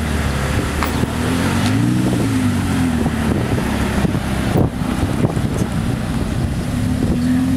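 Car engine running, its revs rising and falling about two seconds in and again near the end, with wind on the microphone.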